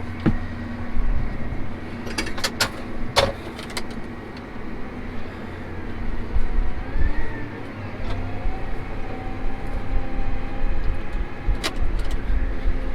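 Farm tractor running steadily, heard from inside the cab as a low rumble, with a few sharp clicks scattered through it.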